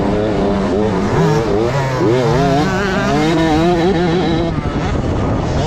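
Several motocross bikes' engines racing past, revving up and down repeatedly as the riders work the throttle over the track.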